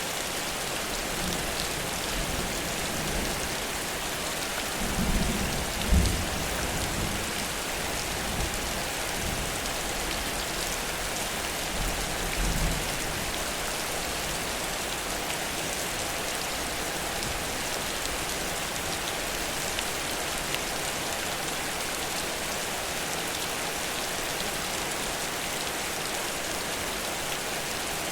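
Heavy rain falling steadily in a downpour. A short low rumble swells about five seconds in and another near the middle.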